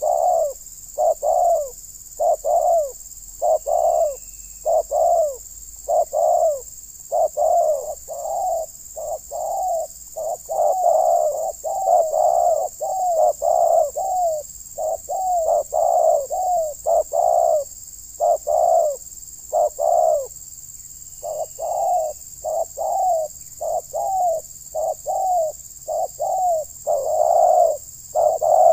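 Spotted dove (terkukur) cooing: a long run of short, low coo notes, about one to two a second, with a pause of a couple of seconds about two-thirds of the way in.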